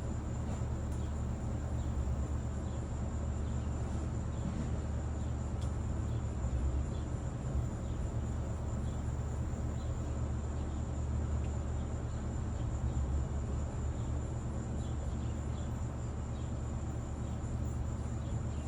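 Insects calling in a steady, high-pitched drone over a steady low rumble.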